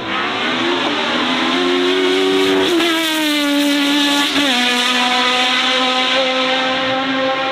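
A high-performance car's engine accelerating hard, its pitch climbing and then dropping sharply twice as it shifts up, about three seconds in and again a second and a half later, then holding at a steady high pitch.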